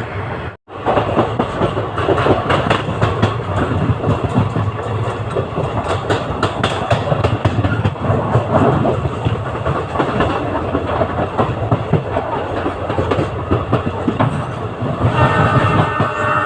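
Passenger train running at speed, heard from on board: continuous rumble of the coaches with rapid clatter of the wheels over the rail joints. The sound cuts out for an instant about half a second in, and a steady high-pitched tone joins near the end.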